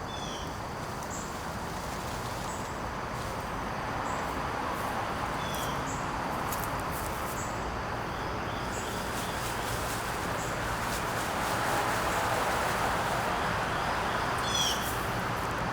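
Birds giving short, high, falling chirps a few times over a steady rushing background noise that slowly grows louder.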